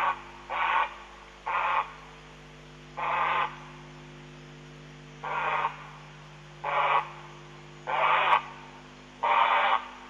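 A night bird calling: short, harsh calls repeated about eight times at uneven intervals of one to two seconds, over a steady electrical hum.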